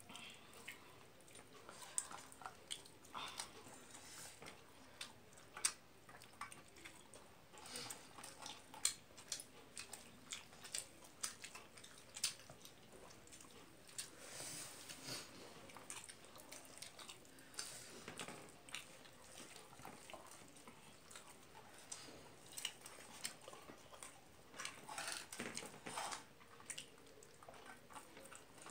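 A person eating rice and egg curry by hand, chewing with wet mouth clicks and smacks: many short, irregular clicks, a few of them louder.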